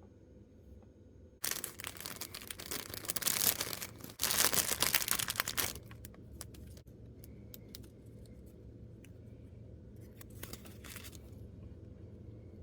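Packaging of a miniature set being torn open by hand: two long rips in quick succession, then small crinkles and clicks and a shorter rip near the end.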